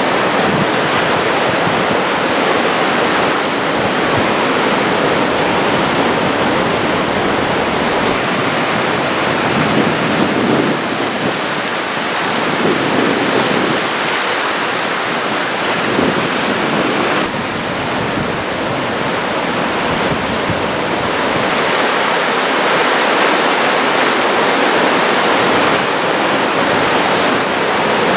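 Large typhoon-driven surf breaking on the shore: a continuous, loud rush of waves with no break.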